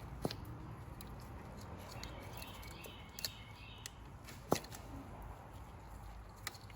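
Scattered light clicks and taps of tools and parts being handled in the engine bay during diesel injector removal, with one sharper click about four and a half seconds in, over a low steady hum.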